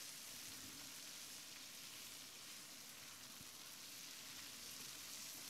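Lamb liver with coconut strips frying on high heat in a non-stick pan, sizzling faintly and steadily as it is stirred with a wooden spatula.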